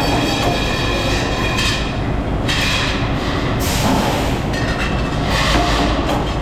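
Metalworking machinery in a motorcycle wheel rim factory running continuously, with metallic clattering and high-pitched squealing tones that shift every second or two over a steady low rumble.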